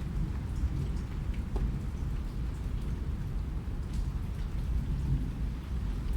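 Steady rain, with single drops ticking now and then over a low, even rumble.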